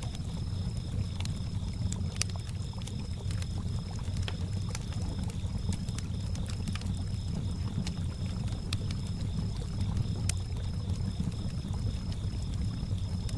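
Campfire crackling with scattered sharp pops, over water lapping low and steady, and crickets chirping in a fast, even high trill.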